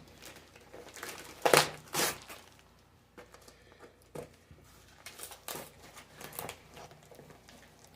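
Foam packing peanuts rustling and crunching as hands dig through a shipping box, in irregular bursts, the loudest about one and a half and two seconds in.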